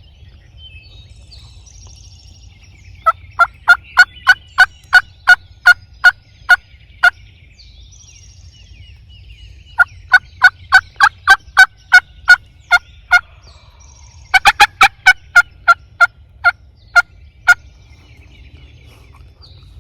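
Hen turkey yelping, loud and close: three series of about ten evenly spaced two-note yelps, each note dropping in pitch, the last series opening with a quick, excited run of notes.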